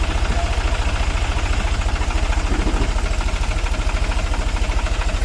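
Sonalika 745 50 hp tractor's diesel engine idling with a steady, evenly pulsing low throb.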